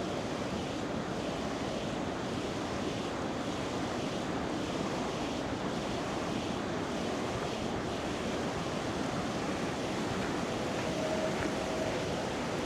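River water flowing, a steady rush of water noise.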